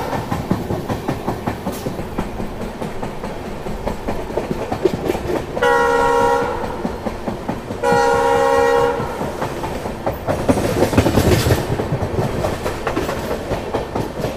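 Train running along the rails with a steady wheel clatter, and a locomotive's multi-tone air horn sounding two blasts of about a second each, about six and eight seconds in. The running noise swells for a second or two about ten seconds in.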